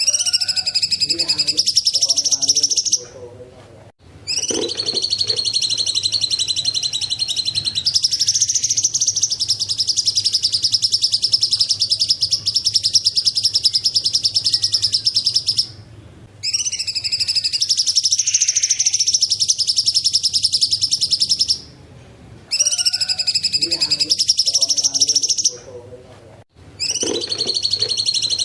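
Cucak cungkok singing: long, rapid, high-pitched trills in repeated bouts of several seconds, each broken off by a brief pause, over a faint steady hum.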